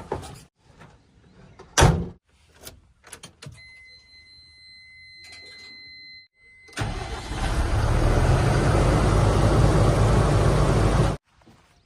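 A sharp knock, then a faint steady electronic beep for a couple of seconds, then a vehicle engine running loudly for about four seconds before cutting off suddenly.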